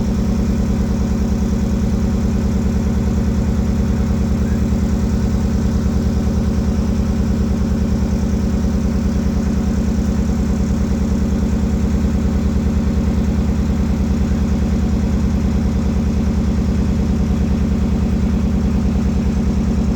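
Boat engine running steadily at an even speed with a fast, regular pulse.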